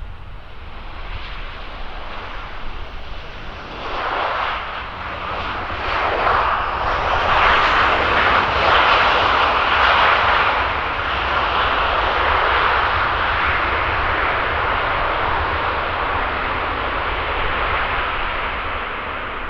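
Jet airliner engines running as an aircraft passes at the airport. The roar swells about four seconds in, is loudest around the middle, then holds and eases off near the end.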